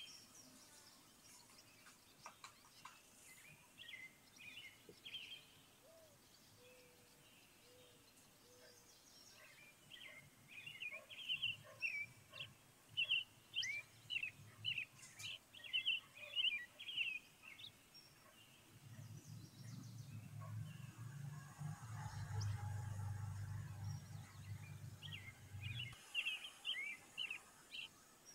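Small birds chirping in quick runs of short high calls, busiest about halfway through. A low hum comes in for several seconds in the second half.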